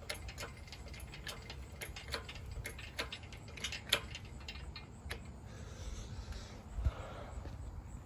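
Ratchet wrench clicking, a few clicks a second, as a transmission bolt is worked loose; the clicking thins out after about five seconds.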